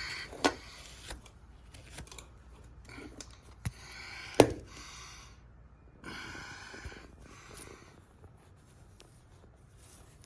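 Hand work on a small engine's parts: scattered light clicks, one sharp knock about four and a half seconds in, and two short scrapes.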